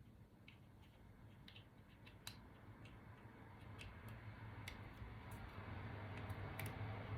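Faint scattered clicks and light taps of small 3D-printer extruder parts being handled and fitted together by hand, over a low steady hum that grows a little louder toward the end.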